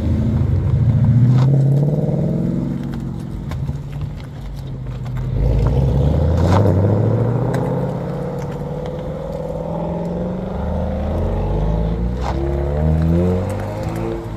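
Ford Mustang engines accelerating away one after another, each rising in pitch as it revs up through the gears. There are louder surges about a second in, around six seconds in, and again near the end.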